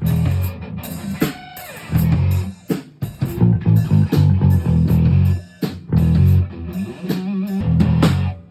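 Heavy metal band playing: an electric guitar riff over bass guitar and drum kit, in a steady driving rhythm that stops abruptly at the end.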